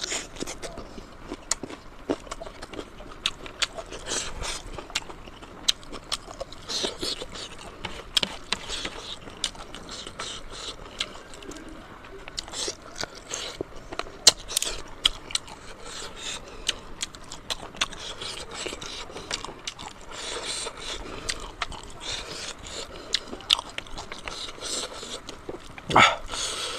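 Close-up mouth sounds of someone eating pork leg and pork nose: irregular wet clicks, smacks and chewing, with no steady rhythm.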